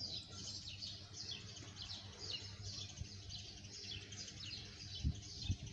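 Birds chirping: a steady stream of short, high, falling chirps. Two soft low thumps come near the end.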